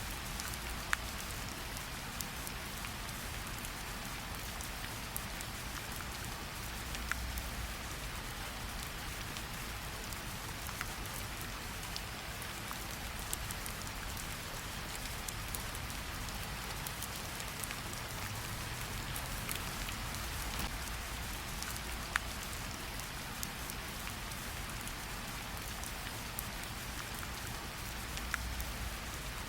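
Steady rain falling on leaves and ground, an even hiss with scattered individual drops ticking close by.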